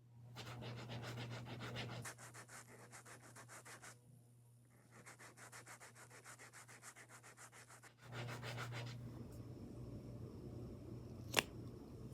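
Rapid rhythmic rubbing strokes from a makeup tool, about five a second, in two runs with a short pause between. They are followed by a steadier rustling and a single sharp click near the end.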